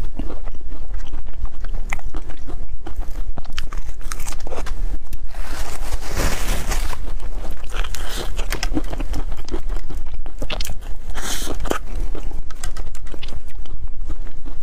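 Close-up eating sounds of cream puffs: repeated bites and chewing with many small crunchy clicks, and two louder, longer crunching bursts about six and eleven seconds in.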